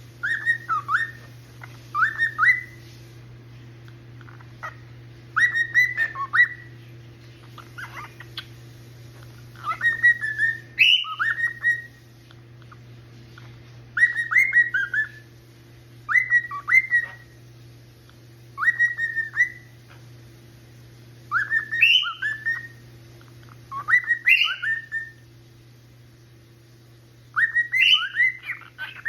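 Male cockatiel singing: short whistled phrases of quick rising and falling notes, repeated every two to three seconds with short pauses between.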